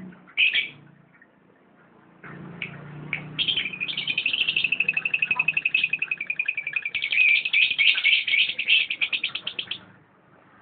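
Lovebird giving its ngekek song: a couple of short chirps, then a long, rapid chattering trill that runs for about six seconds and stops abruptly.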